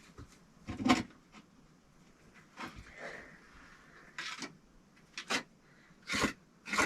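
Bricks and clay mortar being handled while a brick stove is laid: a series of short knocks and scrapes, the loudest about a second in.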